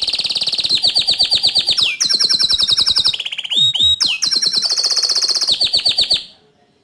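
Bottle-green domestic canary singing a fast song of rapid repeated trills, changing phrase about every second, with a couple of quick downward sweeps in the middle. The song stops abruptly near the end.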